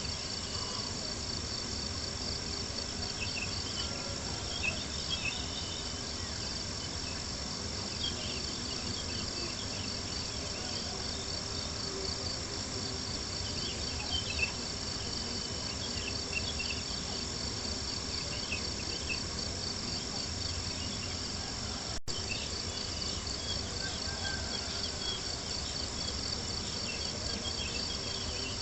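A dense chorus of crickets chirping steadily with a fast pulsing rhythm, over the soft crackle of a campfire with a few small pops. The sound drops out for a split second about 22 seconds in.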